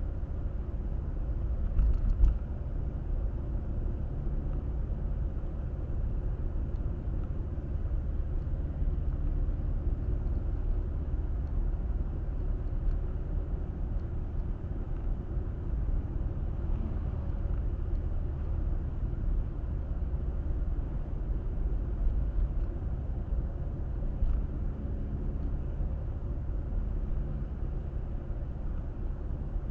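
Car driving along a road: a steady low rumble of tyres and engine, with a short knock about two seconds in.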